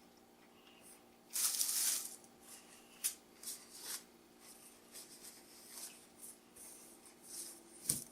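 A person biting into and chewing a deli-meat wrap with lettuce, close up. A loud crinkly rustle comes about a second and a half in, followed by scattered soft crunches and clicks, with a sharper click near the end.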